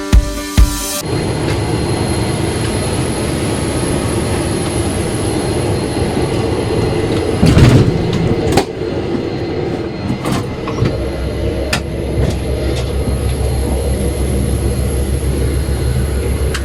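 Guitar music stops about a second in, giving way to the steady rumble and hum of a parked airliner's cabin. About seven and a half seconds in there is a heavy clunk and rattle, followed by a few lighter clicks: the sound of a cabin door's handle and latch mechanism being worked.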